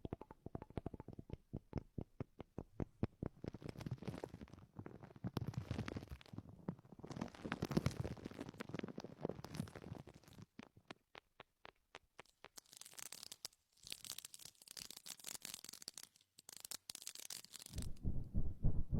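Close-miked ASMR trigger sounds: fast clicking and tapping through the first half, then scratchy, rustling noise from about halfway until near the end.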